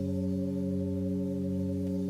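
Singing bowls ringing steadily: several held tones sound together, the lowest ones wavering in a slow pulse.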